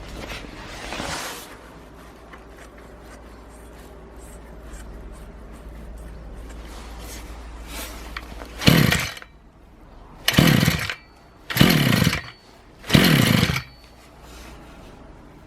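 Brush cutter's small petrol engine idling steadily, then revved hard four times in a row, each rev falling back to idle. It is running again after a carburettor overhaul, having stood unused for over four years.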